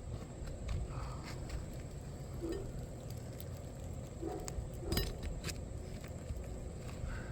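A dove cooing a few short, low notes over a steady low rumble, with scattered light clicks and taps.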